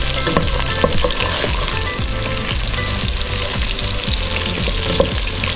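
Chicken wings frying in hot oil and honey in a pot while they are stirred, a steady sizzle with the utensil scraping and knocking against the pot again and again.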